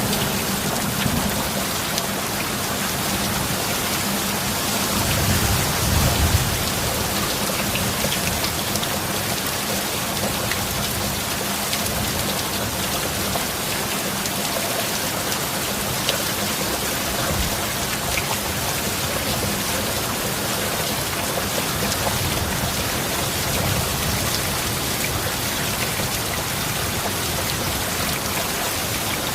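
Steady heavy rain falling, with a low rumble of thunder swelling briefly about five seconds in.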